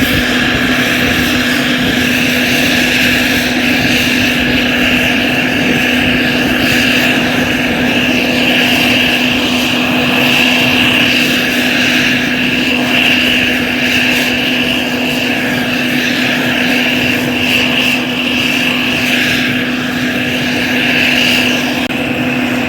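Black Hawk military helicopters running, a steady, loud mix of rotor noise and the high whine of their twin turboshaft engines, with a constant low hum underneath.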